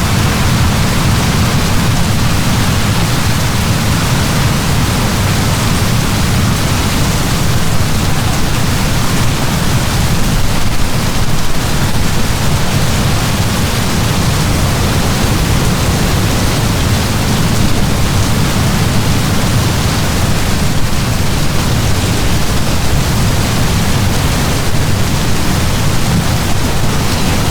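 Heavy rain pouring steadily, a dense even hiss with a deep low rumble beneath it.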